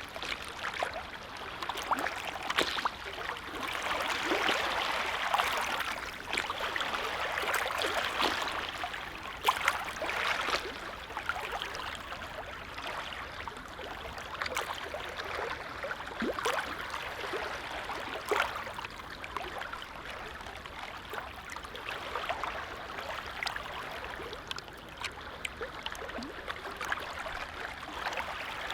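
Small waves on a calm lake lapping and splashing, with a continuous watery wash broken by many little irregular splashes, a bit louder a few seconds in.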